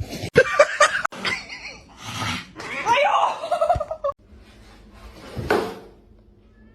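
A cat meowing and people laughing in short separate bursts, with a crackling burst at the start and a longer wavering cry in the middle.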